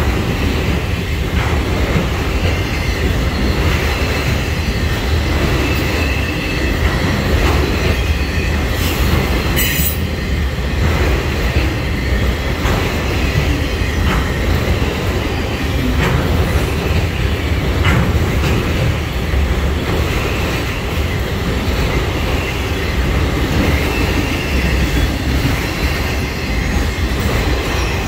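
Freight train of enclosed autorack cars rolling past: a steady rumble and clatter of steel wheels on the rails, with faint wheel squeal at times and a short sharp high sound about ten seconds in.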